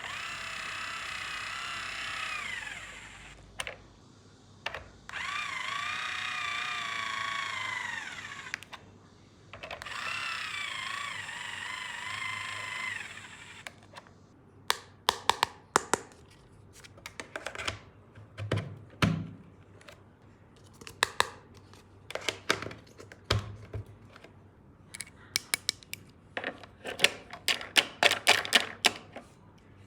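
Battery-powered toy power tool whirring in three bursts of several seconds each, its whine wavering in pitch, followed by a long run of sharp plastic clicks and taps as the toy tools are handled.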